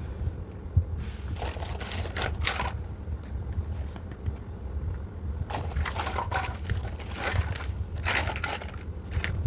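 Plastic packaging crinkling and rustling as it is handled, in three bursts, over a steady low hum.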